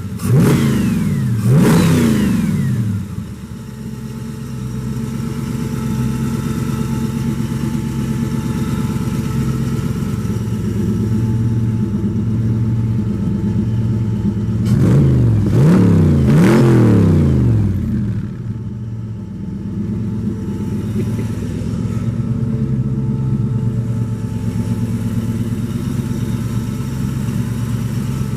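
Ford 4.6-litre SOHC V8, fitted with new lash adjusters and Shelby GT500/Ford GT roller rockers, blipped twice at the start, then idling steadily. It is blipped a few more times about fifteen seconds in before settling back to idle.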